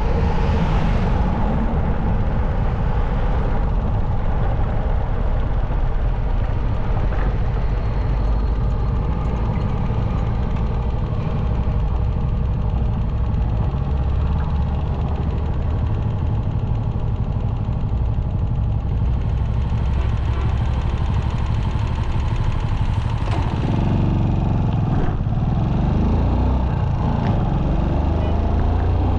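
Motorcycle running at road speed: a steady engine note under heavy wind rumble on the microphone, with a brief brighter rush right at the start and a rougher, shifting rumble in the last few seconds.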